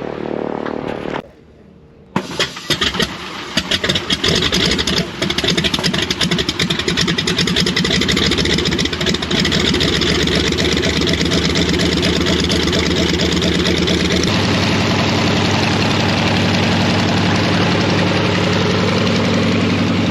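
Nanchang CJ-6's nine-cylinder radial engine starting about two seconds in: uneven firing that catches and settles into a steady run. The tone of the running changes about fourteen seconds in.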